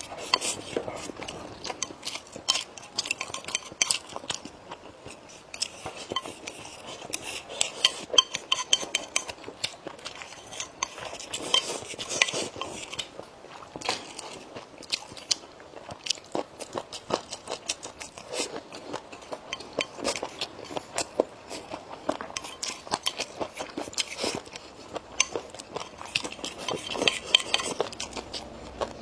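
Close-up eating sounds: crunchy biting and chewing of food, with frequent sharp clicks of utensils against a dish.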